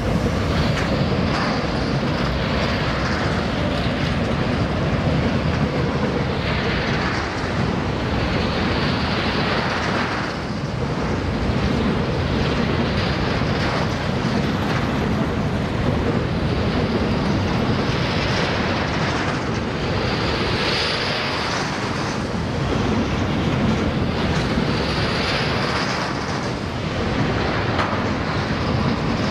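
Freight train wagons rolling past: a steady rumble and rattle of steel wheels on the rails, swelling every few seconds as each wagon goes by.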